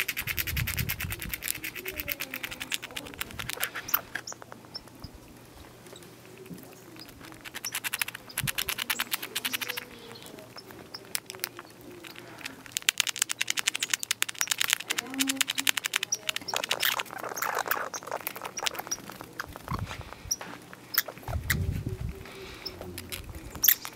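Squirrels gnawing and chewing seeds and cones: rapid, crisp crunching clicks in bursts of a few seconds, with short pauses between.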